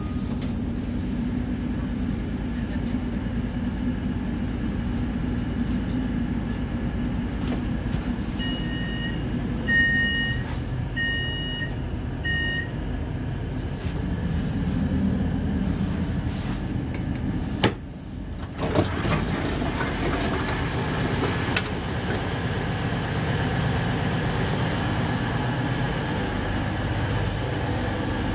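Inside the door vestibule of a Class 222 Meridian diesel multiple unit: the steady low rumble of the running train, with four short two-tone electronic beeps from the door system about nine to twelve seconds in. A sharp click and a brief drop in the noise come around eighteen seconds, and another click a few seconds later.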